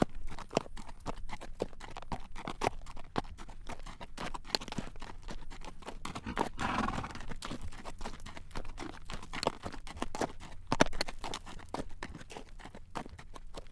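Horse's hooves clacking on a road at a walk as it draws a carriage, a steady train of sharp knocks. About six and a half seconds in a brief breathy noise rises over the hoofbeats.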